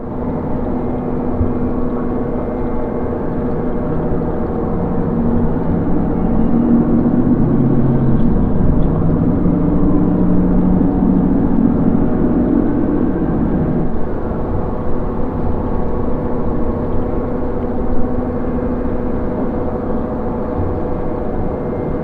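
Dark ambient drone: a low, sustained hum with a few steady tones, swelling with shifting lower notes between about five and fourteen seconds in.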